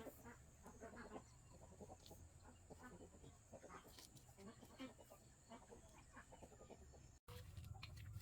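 Chickens clucking faintly in scattered short calls. About seven seconds in the sound cuts off and gives way to a steady low hum.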